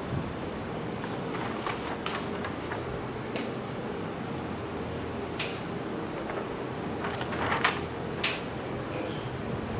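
Classroom room tone: a steady hum with scattered small clicks and knocks, the loudest a short cluster about seven and a half seconds in.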